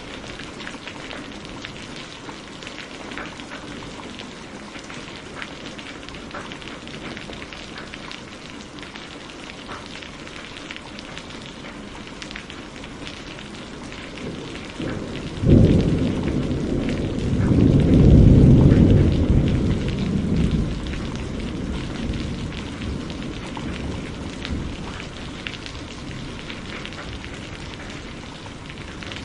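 Steady rain falling, with a sudden thunderclap about halfway through that rolls into a deep rumble, loudest a couple of seconds later, and fades away over several seconds.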